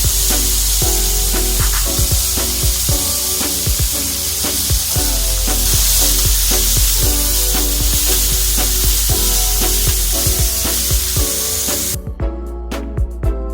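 Food frying in a hot pan, a steady loud sizzle over background music with a steady beat. The sizzling cuts off suddenly near the end, leaving only the music.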